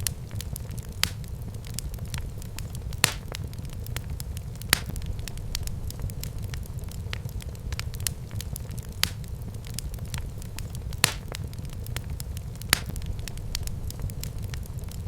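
Wood fire burning in a fireplace: a steady low rumble with constant crackling and sharp pops every second or two.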